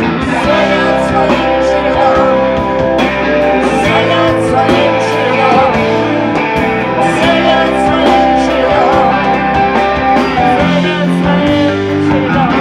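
Rock band playing live: guitars with a singer's voice over them.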